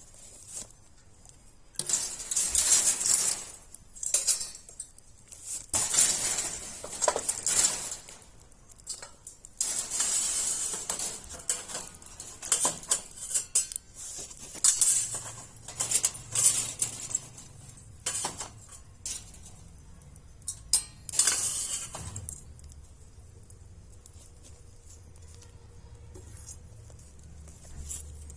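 Irregular clinking and scraping handling noises in short bursts, stopping after about twenty seconds, leaving a faint low hum.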